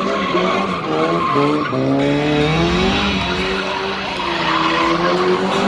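Car engine revving hard, its pitch climbing and dropping several times, while the tyres squeal as the car slides in a drift.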